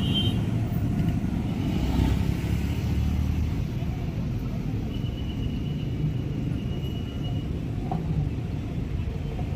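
Steady low rumble of passing vehicles, with a faint high tone for a couple of seconds midway.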